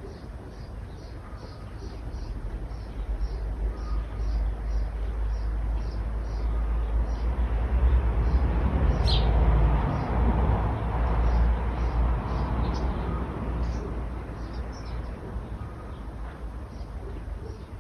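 A road vehicle going past, its noise swelling over several seconds, loudest about halfway through, then fading. A bird repeats a short high call a couple of times a second throughout.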